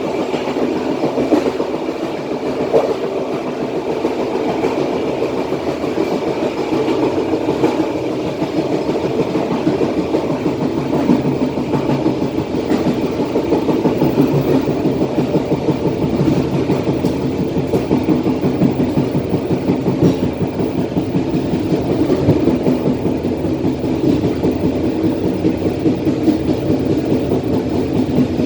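Passenger train coaches running on the track: a steady rumble of wheels on rail with frequent small clicks and clatter, heard from the rear of the last coach.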